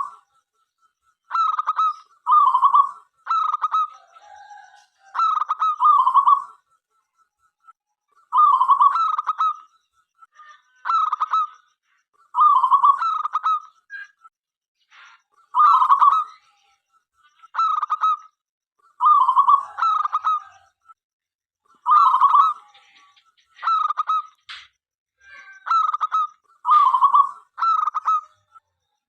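Zebra dove (local perkutut) cooing: phrases of quick, rippling coo notes, each about a second long, repeated every two seconds or so.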